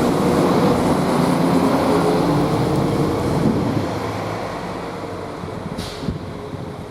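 Class 196 diesel multiple unit running along the platform, with engine drone and wheel noise. The sound fades away over the last few seconds. A short hiss comes near the end.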